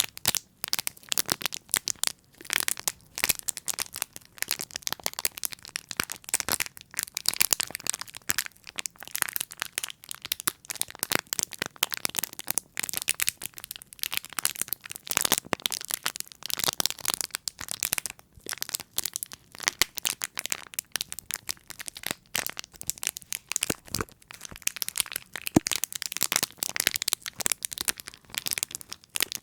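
Close-miked ASMR trigger sounds: a fast, irregular run of sharp crackling and tapping clicks, many per second.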